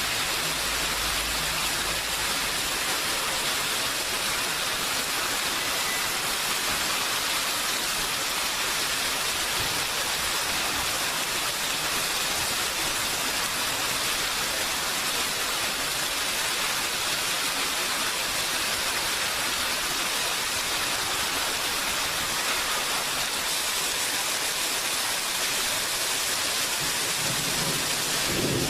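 Steady, even hiss of heavy rain falling on surfaces. A low rumble fades out in the first couple of seconds.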